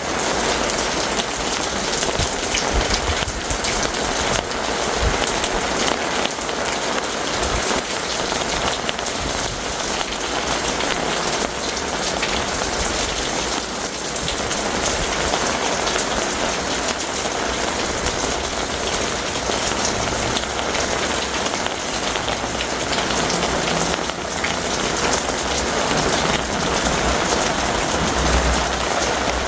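Heavy thunderstorm rain falling steadily: a dense, even patter of many drops.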